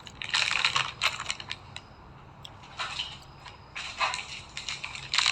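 Plastic snack and chocolate packaging being handled, crinkling and rustling in several short bursts: the longest comes just after the start, with more about three, four and five seconds in.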